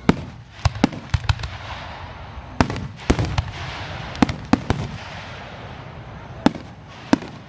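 Aerial fireworks display: sharp bangs of bursting shells in an irregular series, bunched in quick clusters, with a hissing haze between them.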